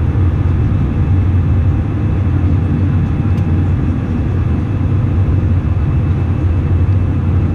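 Steady cabin noise of an Airbus A319 in flight, heard from inside the passenger cabin: a loud, even, deep rumble of engines and airflow.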